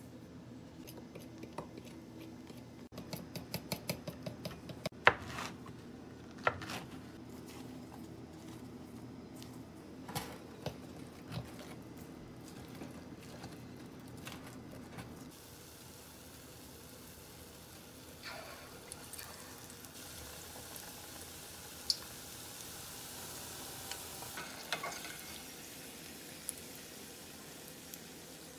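Batter being stirred in a ceramic bowl, with clicks and scrapes over a steady low hum. About halfway through, this gives way to battered onion rings deep-frying in a pot of oil: a steady sizzle with a few sharp knocks of a metal slotted spoon.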